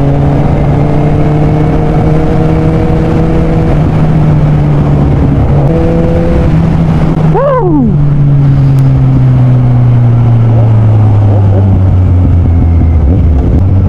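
Kawasaki Z1000's inline-four engine with dual Yoshimura exhausts pulling steadily in third gear while riding, with wind noise underneath. Its pitch holds for the first half, then falls gradually as the bike eases off the throttle. A brief rising-and-falling tone cuts in about halfway through.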